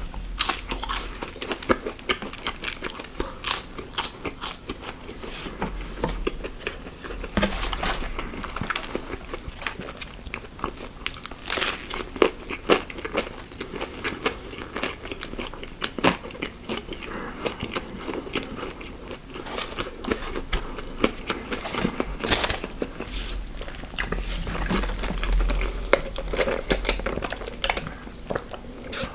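A person chewing and biting into crunchy fast food close to the microphone, with many irregular crunchy clicks.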